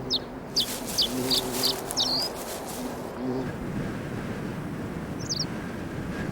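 A small bird chirping: a quick series of short, high notes in the first two seconds and a couple more about five seconds in. Beneath them runs a low pulsing tone that stops about halfway, leaving a steady rushing background noise.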